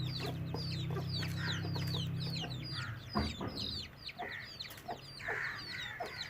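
Budgerigar chicks chirping: many short, high chirps sliding downward, several a second, over a low steady hum that stops a little before halfway. A single knock about three seconds in.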